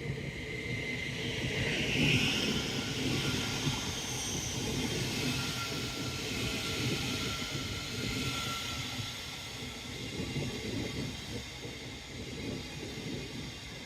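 A train passing along the line: a steady rumble and hiss that peaks about two seconds in and then slowly fades.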